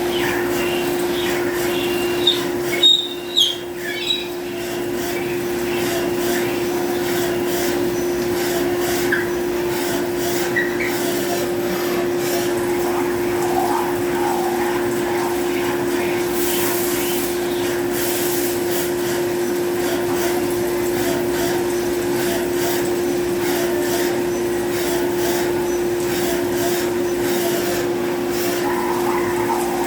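CNC machining center running a drilling job: a steady machine hum holding one constant tone over a hiss, with a few sharp knocks about two to four seconds in.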